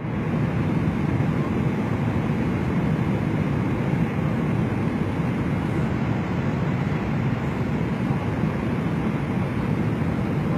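Steady engine and airflow noise of an airliner during its landing approach, a loud even rush with no breaks.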